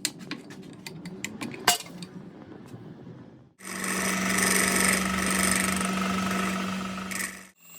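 A few clicks, then a power tool runs steadily with a constant hum for about four seconds before cutting off abruptly.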